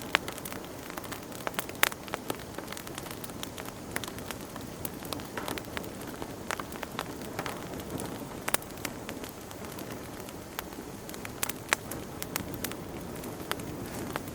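Fire crackling in a fireplace: a steady low hiss with frequent sharp, irregular pops and snaps.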